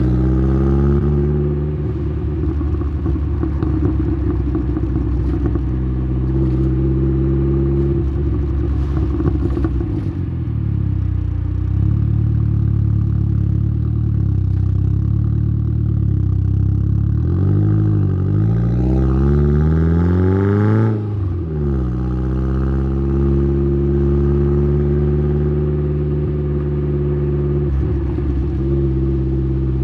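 Exhaust note of a tuned Saab 9-3's turbocharged 2.0-litre B204 four-cylinder, picked up at the tailpipe behind a 3-inch downpipe and Simons muffler, running at steady cruising revs. About two-thirds of the way through the revs climb steadily for several seconds, then fall away sharply as the throttle closes, and the engine settles back to a steady note.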